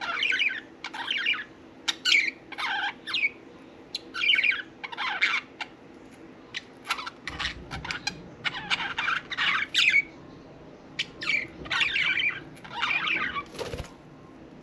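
Budgerigars chirping and chattering in quick bursts of warbling, squeaky calls, with a few sharp clicks among them.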